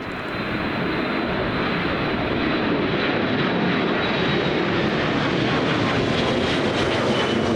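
Boeing 737-300's CFM56 turbofan jet engines roaring steadily at takeoff power, with a faint high whine above the roar.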